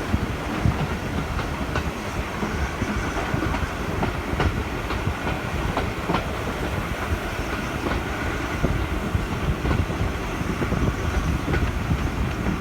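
Railway carriage running along the track: a steady rumble, with wheels clicking over rail joints now and then.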